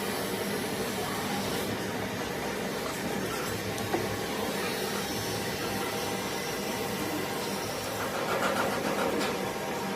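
A steady mechanical hum with a hiss, and a single sharp knock about four seconds in.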